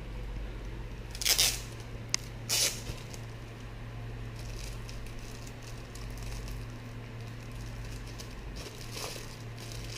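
Gift packaging being opened by hand: paper and wrapping rustling and tearing, with a few short louder rustles about a second in, near three seconds and again near the end, over a steady low hum.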